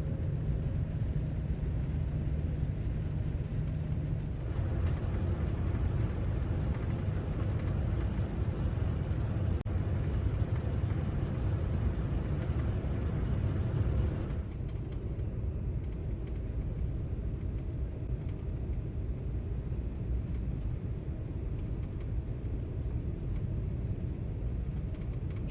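Cabin noise of a Boeing 787-9 airliner: a steady low rumble, with a louder rushing noise that swells about four seconds in and drops away abruptly about ten seconds later.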